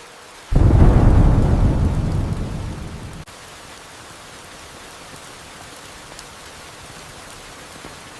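Steady rain with a sudden loud clap of thunder about half a second in. Its deep rumble fades over a couple of seconds and cuts off abruptly, leaving the rain alone.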